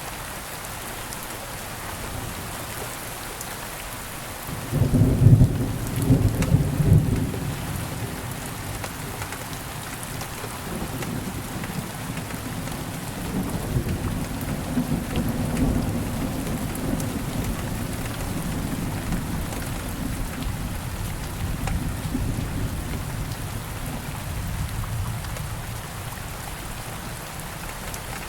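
Steady rain falling, with a loud clap of thunder about five seconds in, then a long rolling rumble of thunder through most of the rest.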